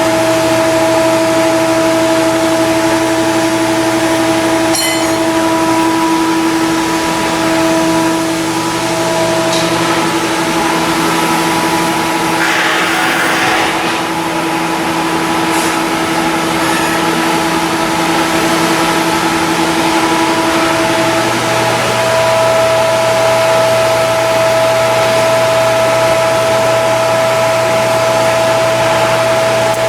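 Steady machinery hum holding several even tones, with a brief hiss about halfway through; one of the tones stops about two-thirds of the way in while a higher one comes back.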